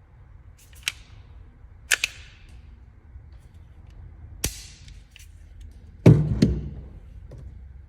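A few sharp clicks spaced one to two seconds apart, then the loudest hit about six seconds in, a bang with a low boom and a short decaying tail, followed closely by another sharp crack.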